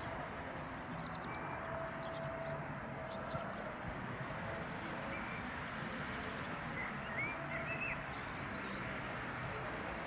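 Steady low rumble of an X4300 diesel multiple unit running, with a faint held tone, and a few short bird chirps over it.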